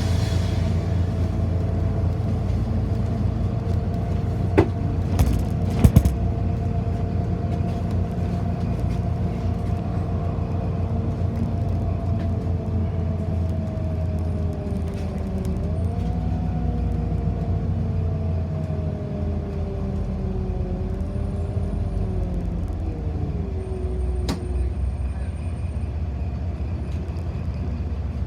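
City bus driving, heard from inside the passenger cabin: a steady low rumble with a two-note drivetrain whine that holds, then falls and rises as the bus changes speed. A few sharp knocks come about five to six seconds in.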